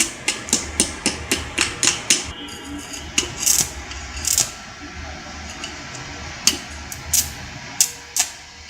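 Hammer striking metal in sharp repeated blows, about four a second at first, then slower and irregular.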